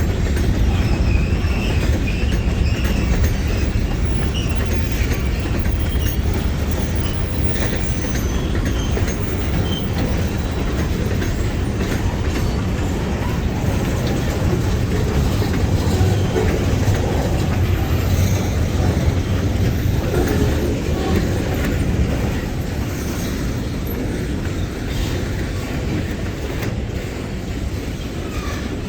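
Long freight train rolling past, the steel wheels of its cars clacking steadily over the rails with a loud low rumble and a faint high wheel squeal in the first couple of seconds.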